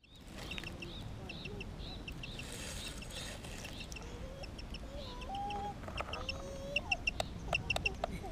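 Birds calling: many short, high chirps in quick series, with a few lower gliding notes in the middle and some sharp clicks near the end.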